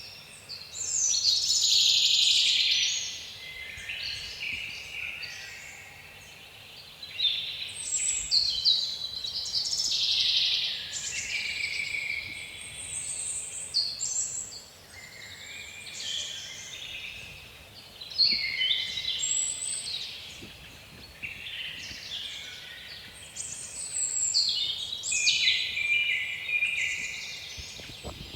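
Several songbirds singing and calling at once, a dense run of overlapping chirps and trills in phrases of a second or two, over a faint low rush of wind.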